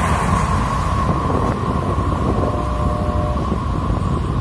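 A freight train of double-stack container well cars rolls away down the track, its wheels on the rails giving a steady high ringing and rumble that slowly fades. Wind rumbles on the microphone.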